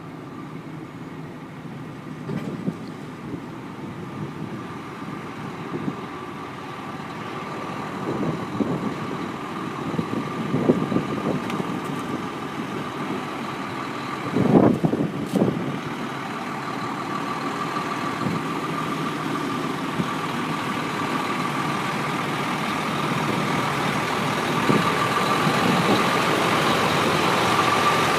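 Truck engine idling steadily with a thin, steady whine above it that grows louder, and a few clunks, the loudest about halfway through.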